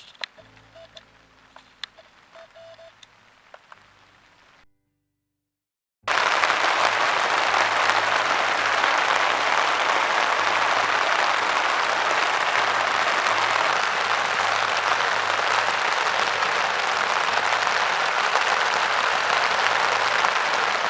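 Heavy rain falling steadily, a loud, dense, even hiss that starts suddenly about six seconds in. Before it there are only faint scattered clicks.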